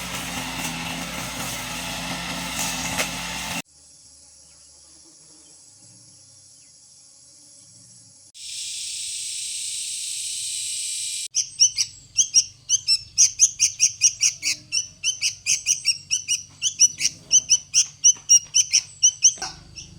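A steady loud noise cuts off abruptly a few seconds in, followed by faint high hissing. Then birds chirp rapidly, several calls a second, through the second half.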